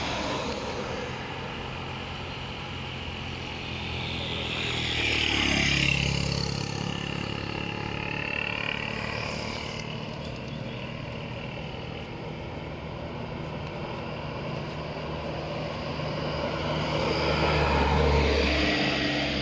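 Motor vehicles driving past: a steady engine hum that swells twice, about six seconds in and again near the end, with the engine pitch dropping as each one goes by.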